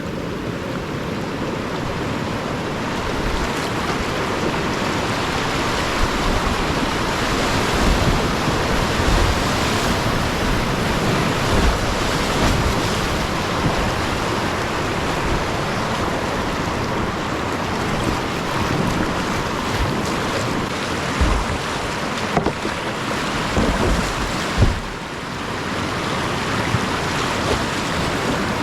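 Whitewater rapids rushing steadily, with wind buffeting the microphone in irregular low thumps. The sound dips briefly about 25 seconds in.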